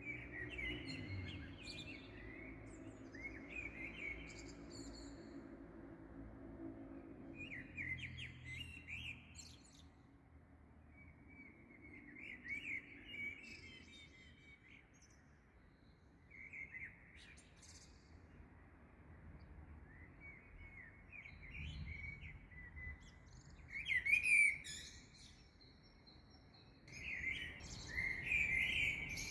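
Small songbirds chirping and singing at dawn: short twittering phrases in bouts, the loudest a burst about 24 seconds in and a run of song near the end, over faint low background noise.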